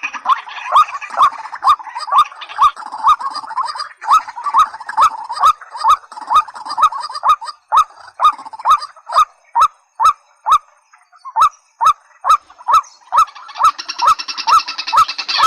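White-breasted waterhen calling: a fast, steady run of short, hooked notes, about two to three a second, with a sharp click at each beat. Near the end a second, fuller and higher call joins in.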